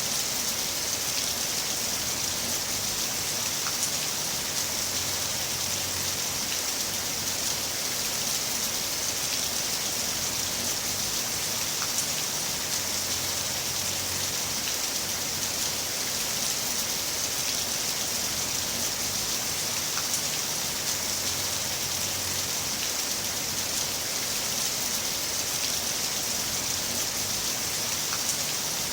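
Heavy rain falling steadily, an even hiss of rain on surfaces with faint individual drop ticks now and then.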